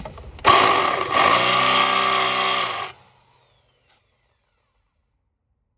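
Electric drill with a cobalt bit running against hardened steel for about two and a half seconds, with a short dip about a second in, then released and spinning down with a falling whine. The bit is not cutting through the hardened steel.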